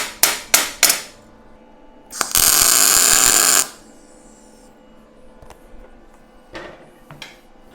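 Four quick, sharp taps on steel in the first second, then a welding arc striking for a single tack weld of about a second and a half, a loud, steady sizzle that stops abruptly.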